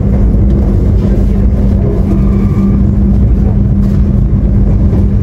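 Steady, loud running noise inside a passenger train coach in motion: a deep rumble of the wheels on the rails with a steady hum beneath it.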